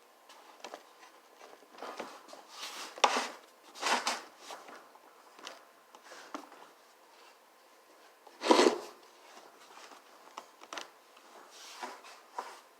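Irregular scraping, rattling and knocking as a garage door opener's chain and sliding part are worked along its rail and resist going on, with a sharp knock about eight and a half seconds in the loudest.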